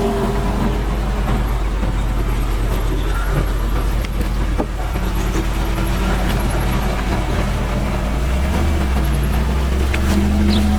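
A motor running steadily with a low hum, its pitch shifting about eight seconds in.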